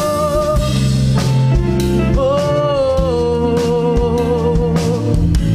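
Live band music: drum kit, bass guitar and electric guitars, with a held melodic line over a steady beat between sung lines.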